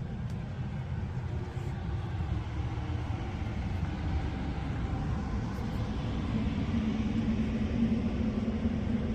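Steady low rumble of a vehicle on the move, with a humming tone that grows louder about six seconds in.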